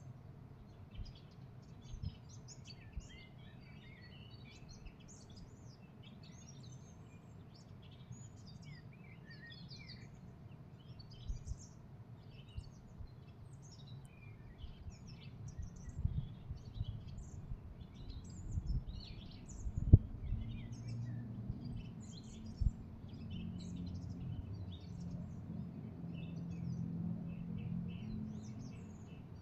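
Small songbirds chirping and calling, many short high notes overlapping throughout. Under them is a low rumble that swells in the second half, with a few sharp knocks, the loudest about twenty seconds in.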